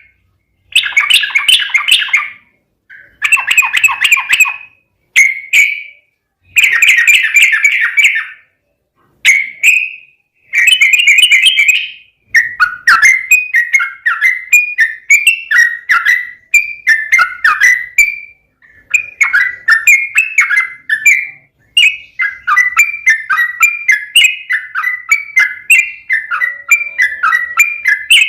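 Yellow-vented bulbul (trucukan) singing loudly. For the first twelve seconds it gives short bubbly phrases with brief pauses between them, then it runs into a continuous stream of quick chattering notes.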